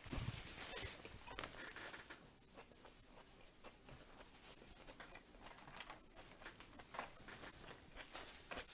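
Faint, close chewing of crispy homemade fried chicken: irregular small crunches and wet mouth clicks.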